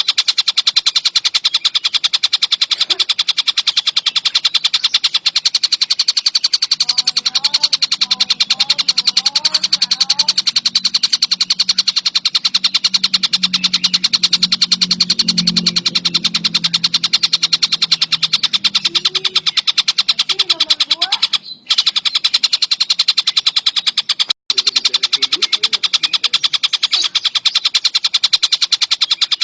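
Tengkek buto bird calling without pause in a rapid, continuous stream of sharp repeated notes. The stream breaks off for a moment twice, past two-thirds of the way in.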